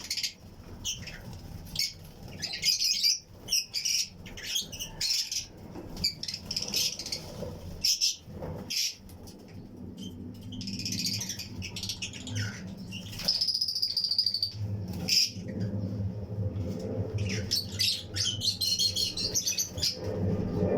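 A colony of Fischer's and lutino lovebirds chirping: rapid, overlapping high chirps with scattered sharp clicks, and a low hum underneath from about ten seconds in.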